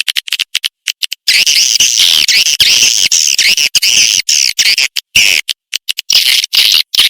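Swiftlet caller recording: swiftlet chirps and clicks played as a lure for swiftlets. It opens with a few short sparse clicks, then about a second in turns to a dense, rapid run of high twittering chirps with brief gaps.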